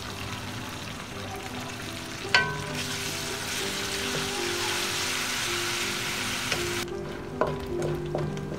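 Ginger garlic paste and sliced onions sizzling in hot oil in an aluminium wok while a wooden spoon stirs them, with a sharp knock about two seconds in. The sizzle drops away about seven seconds in, leaving light clicks and scrapes of the spoon against the pan.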